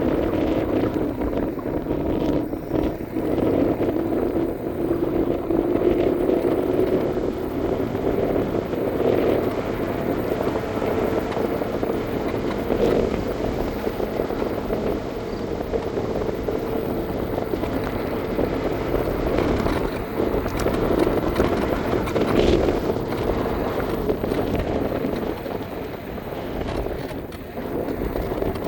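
Electric scooter's motor whining steadily, its pitch drifting slowly up and down with speed, over a continuous rushing noise of wind and tyres.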